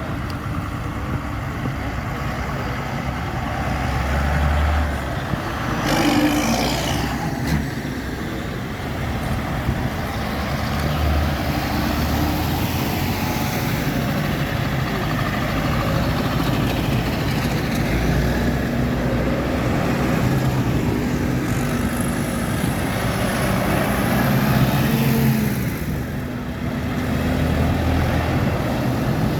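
Tractors and other vehicles of a road run passing one after another, their engines running and rising and falling as each one goes by.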